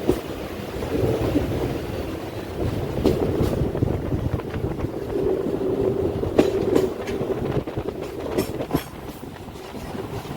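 Train running on the rails: a steady rumble with paired clacks of the wheels over rail joints, three pairs spaced a few seconds apart.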